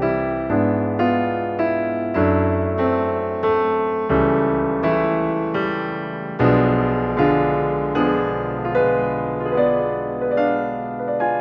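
Soft, slow piano music: gentle notes and chords played at an even pace.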